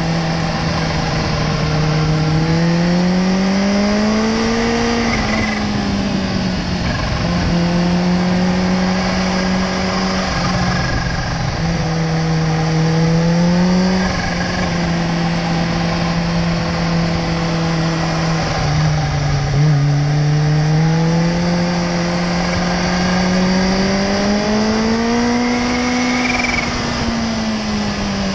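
Sport motorcycle engine heard on board while riding. Its pitch climbs and falls several times with the throttle: rising over the first few seconds, again around halfway and toward the end, and easing off in between. A steady rush of wind runs underneath.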